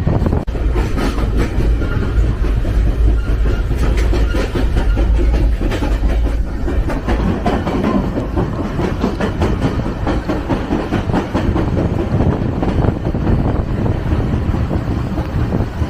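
El Chepe passenger train running along the track, heard from aboard: a steady low rumble with rattling and frequent clicks of the wheels over the rails.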